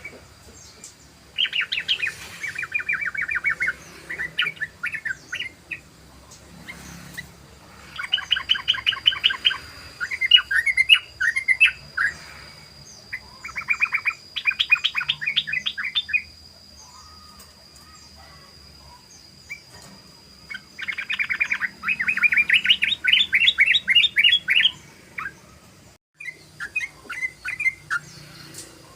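Sooty-headed bulbul (trucukan) singing its rapid chattering 'ropel' song: phrases of quick repeated chirps, each lasting two to four seconds, six of them with short pauses between.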